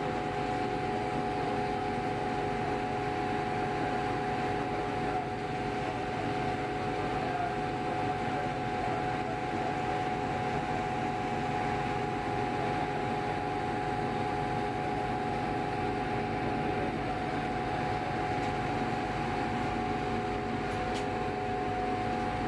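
Steady engine drone inside a ferry's passenger cabin: an even rushing noise with a few held humming tones that do not change.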